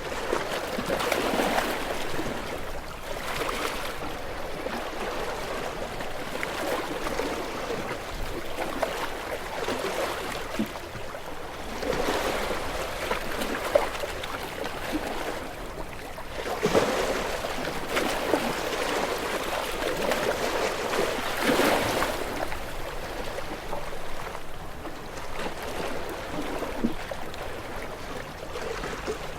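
Small waves washing onto a shore, the water surging in and easing off, with louder washes every few seconds.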